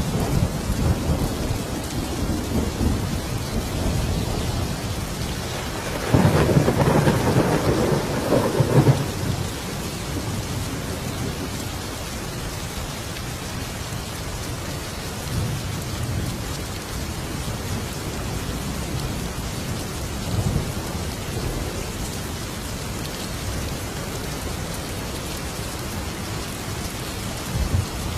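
Thunderstorm: steady rain with rolling thunder. A louder roll of thunder comes about six seconds in and lasts around three seconds, with fainter low rumbles later.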